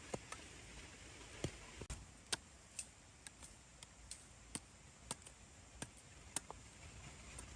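Irregular sharp clicks and snaps, roughly two a second, over a faint steady background.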